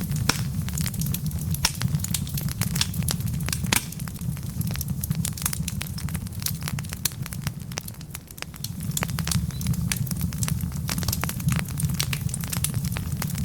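Wood fire burning in a fireplace: a steady low rumble with many sharp, irregular crackles and pops from the burning logs, briefly quieter around the middle.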